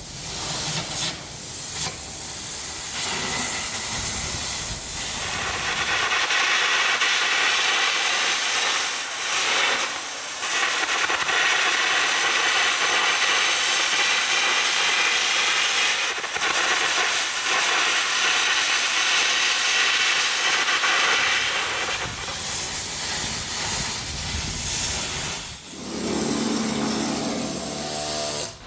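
Air carbon-arc gouging on steel plate: a loud, steady hiss of the compressed-air jet and arc, with a few short breaks.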